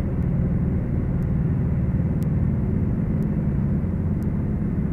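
Twin four-cylinder Lycoming piston engines of a Beechcraft Duchess running steadily, a low drone, with a faint tick about once a second.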